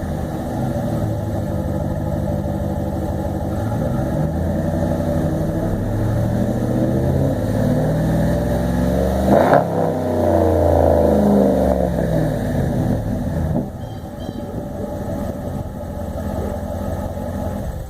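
2014 Ram Hemi V8 running through a Thrush welded muffler with the resonators cut out. Its exhaust note rises and falls in pitch and is loudest about halfway through, then settles lower and steadier near the end.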